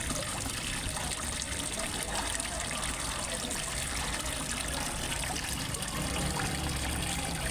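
Water trickling and splashing steadily into a fish pond, as from a small waterfall.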